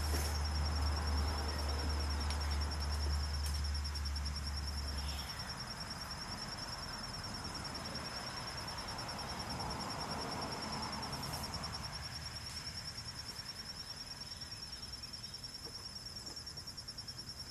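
Insects trilling outdoors in a steady, high, rapidly pulsing chorus. A low steady rumble underneath stops abruptly about five seconds in.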